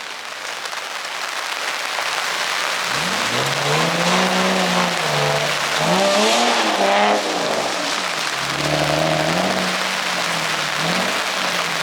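Car engine revving up and falling back several times over a steady hiss of tyres on wet pavement, as a car drifts on a rain-soaked course.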